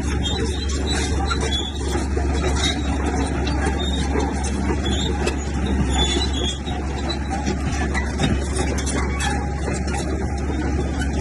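Komatsu bulldozer's diesel engine running steadily, a continuous heavy low rumble.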